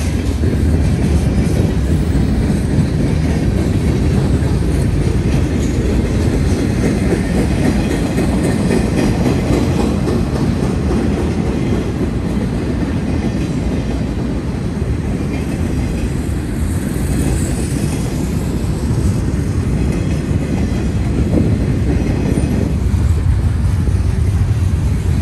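Mixed freight train's cars rolling past at close range: a steady, loud rumble of steel wheels on the rails with some clatter.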